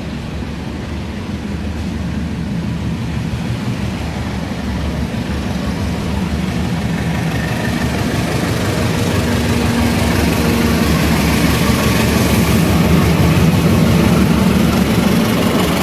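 Diesel locomotive engine running with a steady low hum, growing gradually louder.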